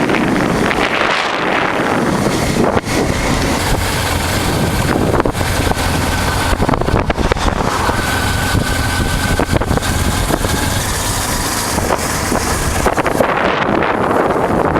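Honda Transalp's V-twin engine running steadily while riding, with wind rushing over the microphone.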